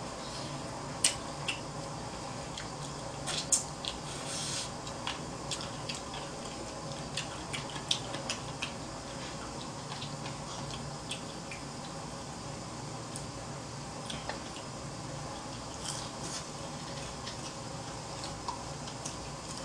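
Close-miked eating sounds: wet chewing and scattered small clicks and ticks as fried chicken is eaten by hand off the bone, over a steady low background hiss.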